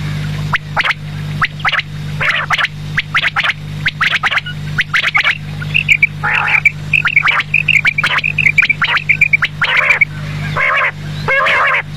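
Quail calling: repeated short, sharp call notes and quick chirping phrases, with a steady low hum underneath.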